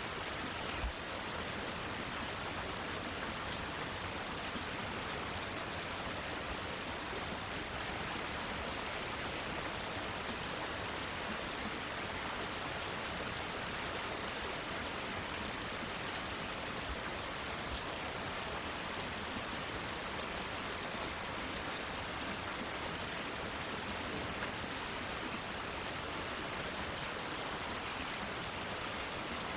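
Steady rain falling on plants, a constant even hiss. One brief low thump about a second in.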